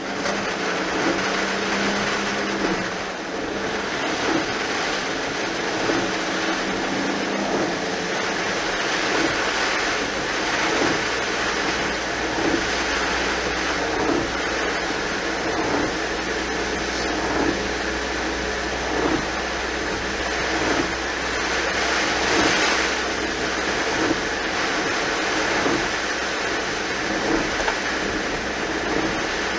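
Heavy typhoon rain and water on a flooded road, a steady loud hiss, with a vehicle's engine humming low beneath it from about nine seconds in. A soft regular pulse recurs about every second and a half to two seconds.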